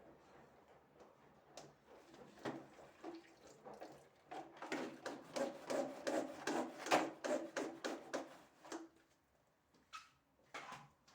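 Hand scrubbing or wiping a hard surface in quick back-and-forth strokes, about three a second. The strokes are loudest in the middle and stop about nine seconds in.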